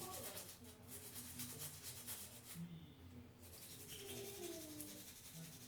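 Faint, uneven rustling and rubbing from items being handled, with a short lull about halfway through.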